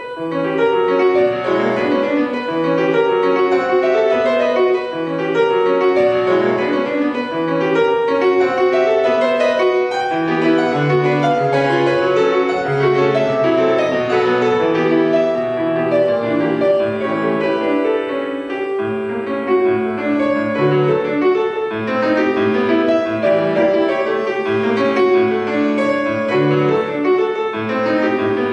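Solo piano playing classical music. After a brief pause it breaks into a lively passage of many quick notes that runs on steadily.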